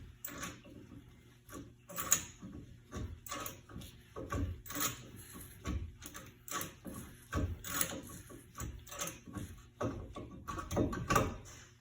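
Hand tools working a rear disc brake caliper, giving irregular metallic clicks, knocks and scrapes as a part is worked in.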